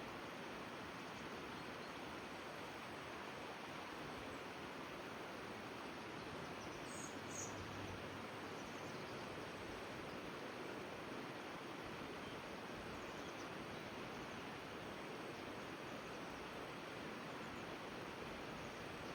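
Steady rushing of river water, with two brief high chirps about seven seconds in.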